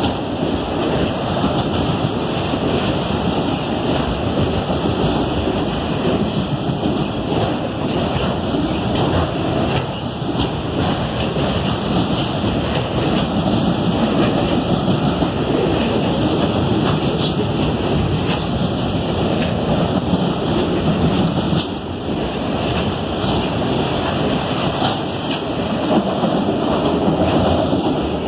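Freight cars of a manifest train rolling past on steel rails: a steady noise of wheels on the track.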